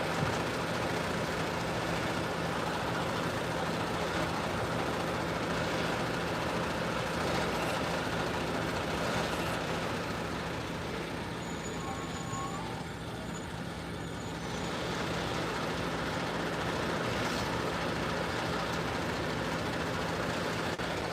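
Steady hum of an idling vehicle engine with a constant low tone, heard from inside a stopped car.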